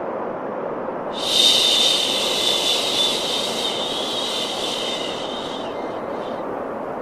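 Steady white noise for soothing a baby to sleep. A brighter, higher hiss with a faint whistling tone swells in about a second in and fades out near the end, over a constant lower rushing noise.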